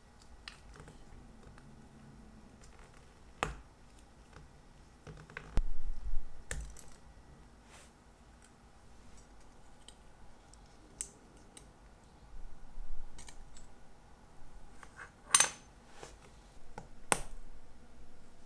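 Irregular small clicks and taps of steel tweezers and metal watch-case parts being handled as a chronograph case is taken apart, with a soft thud about six seconds in and the sharpest clicks near the end.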